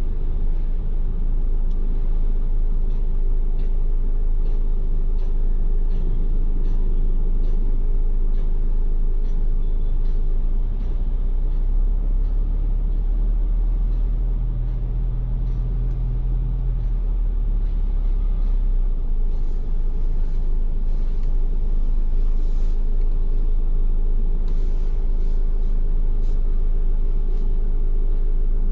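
Steady road and engine rumble heard inside a Ford Everest SUV driving on wet roads. Through the first half there is a light ticking about twice a second, and there are a few scattered crackles later on.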